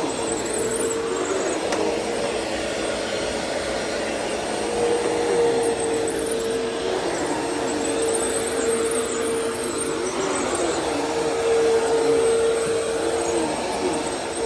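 Vacuum cleaner running steadily as it is used on a store floor: a constant motor whine over rushing air. The whine swells a little louder twice.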